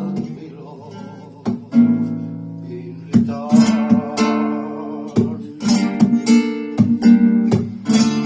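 Flamenco guitar playing a slow bulería: a few plucked notes left ringing, then from about three seconds in a run of sharp, rhythmic strummed chords.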